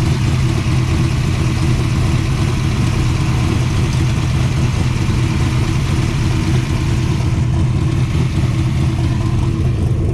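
A 512 cubic-inch stroker Mopar big-block V8, built from a 440, idling steadily in a 1968 Plymouth Barracuda drag car.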